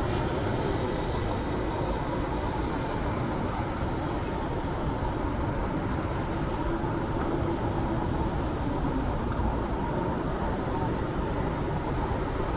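Steady city traffic noise and road rumble heard while cycling, with a low, even hum of passing vehicles and no single event standing out.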